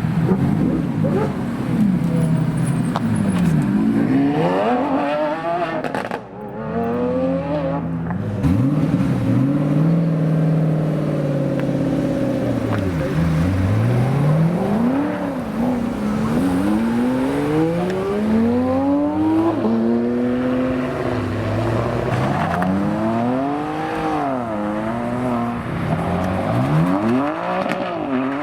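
Performance car engines revving, the pitch climbing and falling back again and again as the cars accelerate away.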